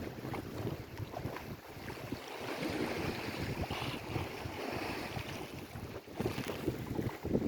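Lake Erie waves washing against the shore, with wind buffeting the microphone in uneven gusts. There is a brief lull about six seconds in, and louder gusts near the end.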